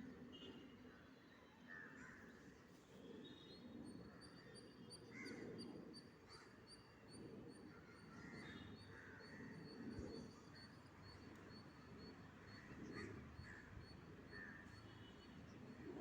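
Faint outdoor background with scattered bird calls and a thin, evenly repeated high chirping; no jet engine stands out.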